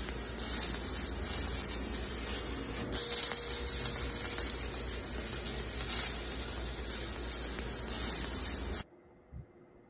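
Electric arc welding: a steady frying crackle from the arc, which cuts off abruptly about nine seconds in as the arc is broken.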